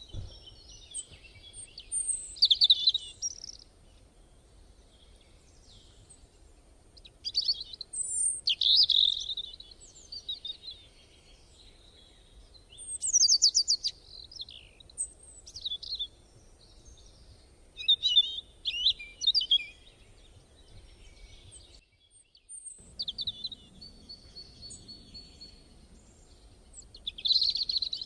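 Small birds singing and calling, in short bouts of chirps and trills every few seconds, over a faint low background hum.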